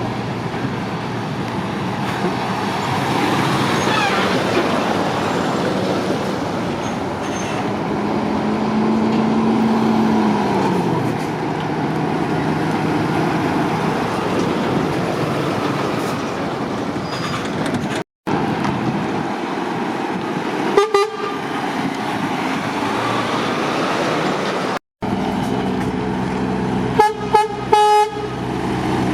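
Heavy lorry traffic running steadily, with one lorry's engine note falling as it passes. A truck horn toots once about two-thirds of the way through, then several short toots come near the end.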